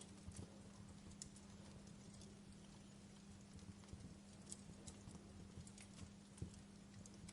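Campfire burning with faint, sparse crackles and small pops, one louder pop about six seconds in, over a steady low hum.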